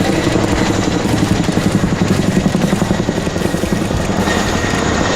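Boeing Chinook HC2 tandem-rotor helicopter in display flight: the two rotors beat with a rapid blade slap, over a thin steady high whine from its turbine engines.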